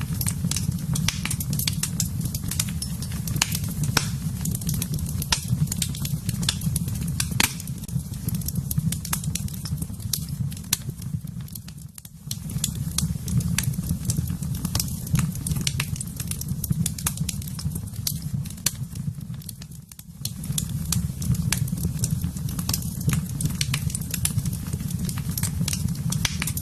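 Wood fire in a fireplace crackling with frequent sharp pops over a steady low rush of flames. The sound briefly fades twice, about halfway through and again about three quarters through.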